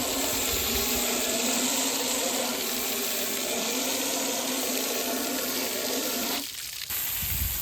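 Water spraying steadily to wash loose metal debris out of a big-block Chevy engine block, a constant hiss with a steady hum beneath it. The spray cuts off about six and a half seconds in.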